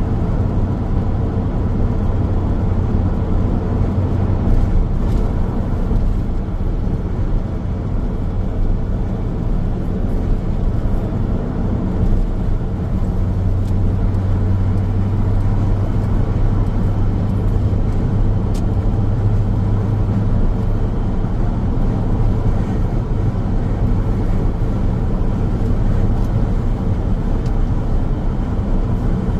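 Car driving along a highway: steady low tyre and engine rumble of road noise. The rumble swells slightly around the middle.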